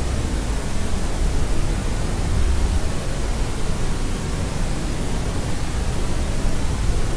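Steady sleep white noise: an even, unbroken hiss, heavier in the low end like pink noise, with no change in level.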